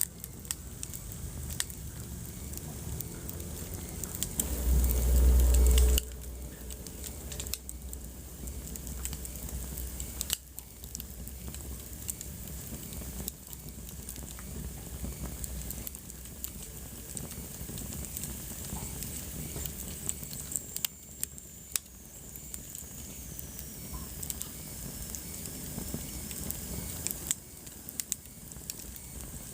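Wood fire burning in a fireplace, crackling steadily with frequent sharp pops. About five seconds in there is a low rumble lasting a second and a half, the loudest thing here, and later a faint high whistle slowly falls in pitch.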